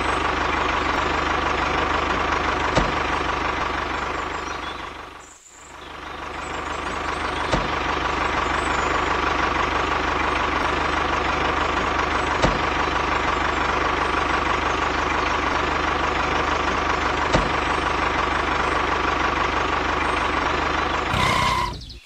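Tractor engine running steadily with a knocking, idling beat. It fades out and back in about five seconds in, and cuts off just before the end.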